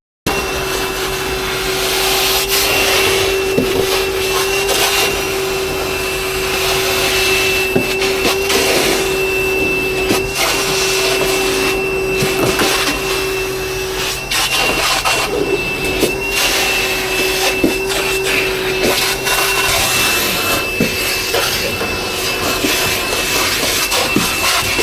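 An electric motor running steadily with a rushing-air sound and a constant whine, like a vacuum, with scattered light knocks. The lower part of the whine breaks off briefly partway through and stops near the end.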